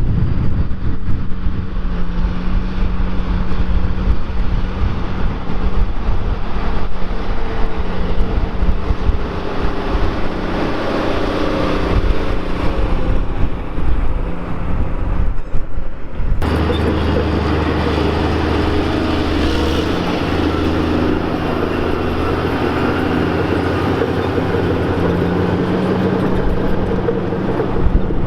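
New Holland 6090 tractor's engine running hard while pulling a loaded Caterpillar scraper pan. About sixteen seconds in the sound changes abruptly to a deeper, steadier engine drone.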